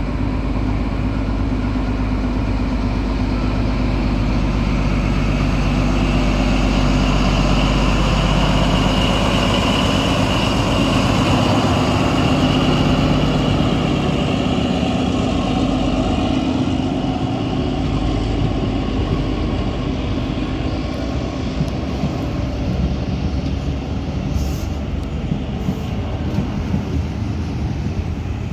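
Diesel train running, its engine drone steady at first and then giving way to rattling wheel clatter on the track in the second half.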